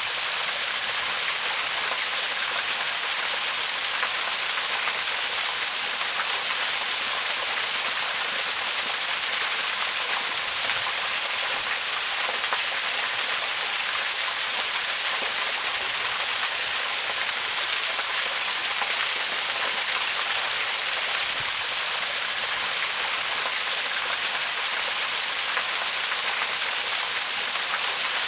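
Waterfall: a steady, unbroken rush of falling water, an even hiss weighted toward the high end with little low rumble.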